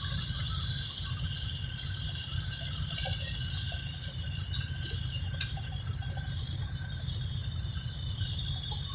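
A low, steady engine rumble with a faint steady whine above it, and a single sharp click about five and a half seconds in.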